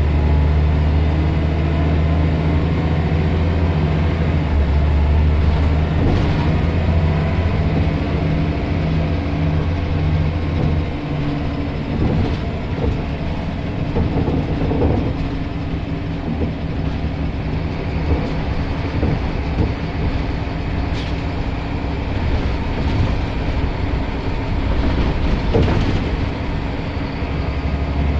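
Scania L94 bus's diesel engine pulling steadily for about the first ten seconds, then dropping away to leave the rumble of the moving bus with body and interior rattles and occasional knocks, before it pulls again near the end.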